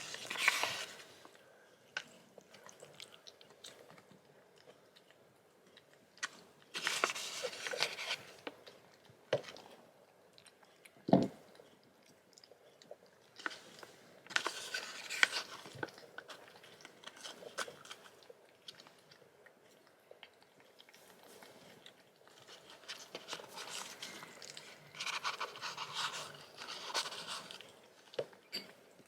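Close-up crunching and chewing sounds that come in bouts of a few seconds, with one sharp knock about eleven seconds in.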